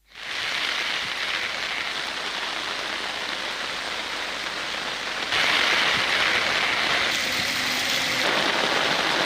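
Steady hiss of heavy rain. It becomes louder and brighter about five seconds in.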